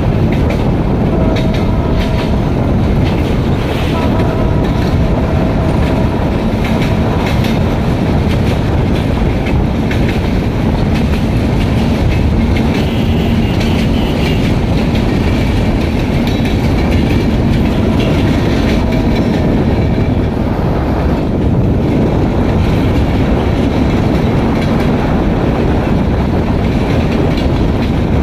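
Passenger train hauled by an ALCO diesel locomotive running at speed: a loud, steady rumble of engine and wheels on the rails.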